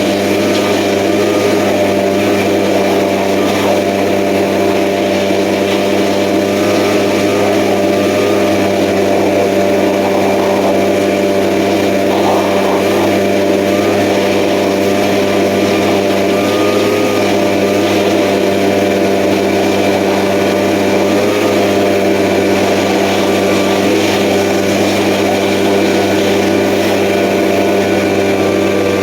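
Echo gas leaf blower's two-stroke engine running steadily at high speed, blowing dust out of a diesel engine's air filter.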